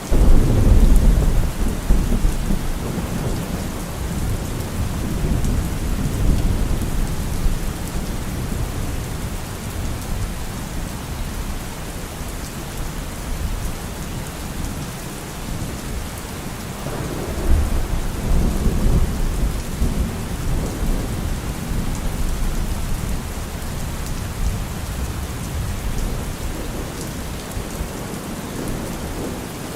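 Thunderstorm: steady heavy rain falling, with a deep roll of thunder at the start that slowly dies away and a second, softer rumble of thunder about two-thirds of the way through.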